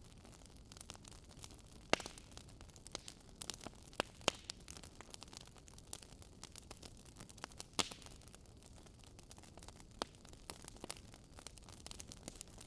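Wood fire crackling: a low steady hiss with frequent sharp pops, the loudest about two, four and eight seconds in.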